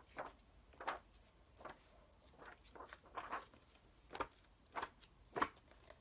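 Pages of glossy magazines being turned and handled in a ring binder: a series of short, faint papery swishes and rustles, roughly one a second.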